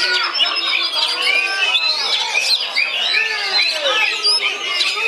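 Oriental magpie-robin (kacer) in full song: a continuous stream of overlapping whistled notes and chirps, many quick rising and falling glides.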